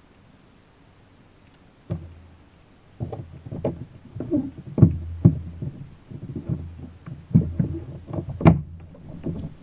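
Irregular knocks and thumps against a plastic fishing kayak, with a low rumble under them. It starts with a single knock about two seconds in and turns into a busy run of bumps from about three seconds, the hardest near the end.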